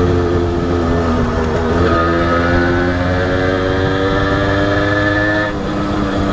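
Honda H100S single-cylinder two-stroke motorcycle engine under way: its pitch falls for the first two seconds, then climbs steadily as the bike accelerates, with a brief dip and break about five and a half seconds in.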